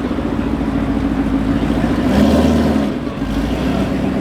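A car engine running with a deep, steady rumble that swells briefly about two seconds in.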